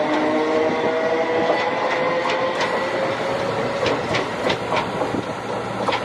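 A train running on the rails: a pitched whine that rises slightly in pitch and fades over the first few seconds, over a steady rumble, with scattered clicks of the wheels over rail joints.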